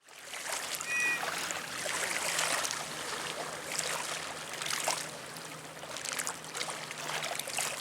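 Water splashing and trickling in an irregular run of small splashes, over a steady low hum, with a brief high squeak about a second in.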